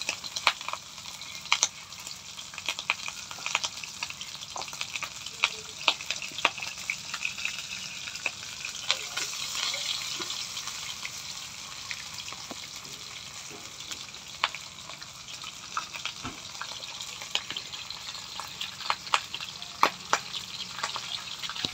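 Battered chicken feet deep-frying in oil in a wok: a steady sizzle with frequent sharp pops and crackles.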